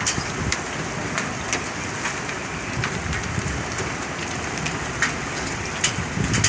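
Hailstorm: a steady hiss of falling rain and hail with sharp, irregular clicks of hailstones striking hard surfaces, about two a second.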